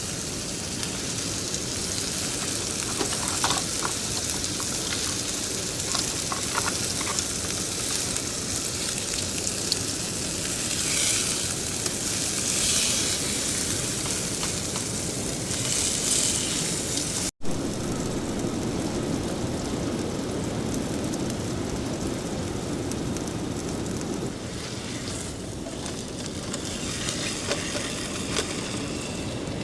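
Steak sizzling in a pan on a camp stove: a steady frying hiss with a few small pops, mixed with wind on the microphone. The sound drops out for an instant about 17 seconds in.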